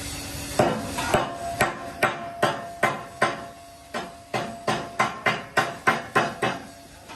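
A hammer striking repeatedly, about sixteen sharp blows at two to three a second with a faint ring after each, stopping shortly before the end.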